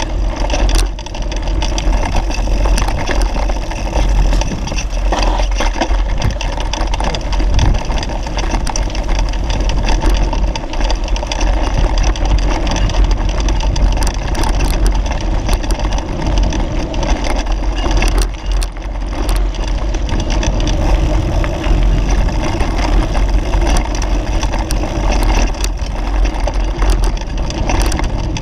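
Wind rushing over the microphone of a camera riding along on a bicycle, a steady loud rumble with tyre and frame noise underneath.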